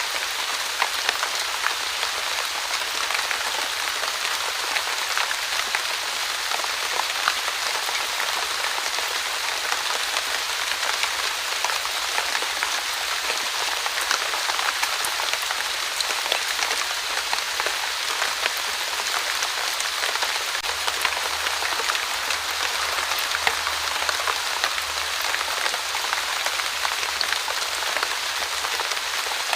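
Steady light rain falling on a surface, a dense even patter of fine drops without let-up.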